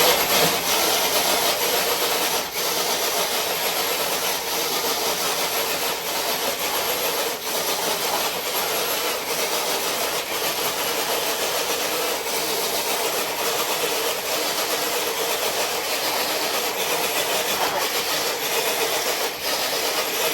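RC crawler truck's electric motor and drivetrain whirring steadily under load as it drags a weighted pull sled that scrapes along the concrete. The sound stops suddenly at the end of the pull.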